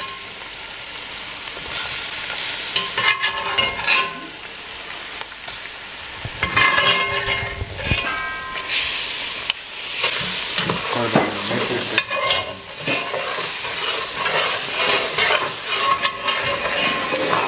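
Diced onions, bell peppers and garlic sizzling as they are stirred into a hot butter-and-flour roux. A metal slotted spoon scrapes and knocks against the pot in irregular strokes.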